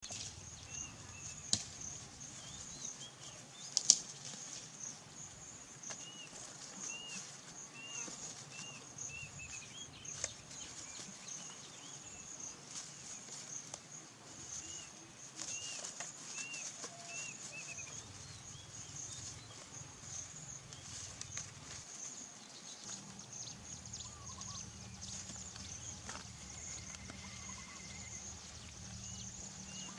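Outdoor ambience: a steady high-pitched insect drone, with runs of short, repeated bird chirps. Two sharp knocks in the first few seconds are the loudest sounds.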